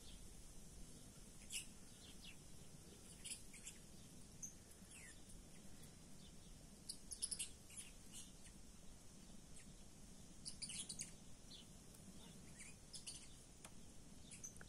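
Faint bird chirps: short, high notes scattered irregularly, a few of them quick downward sweeps, over a very quiet background.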